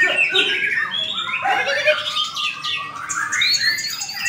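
White-rumped shamas singing: a dense, rapid run of varied whistles, trills and harsh notes, with several birds' songs overlapping.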